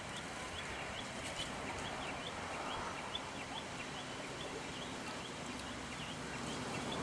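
A bird chirping over and over in short, hooked chirps, about two or three a second, over a steady outdoor background hiss.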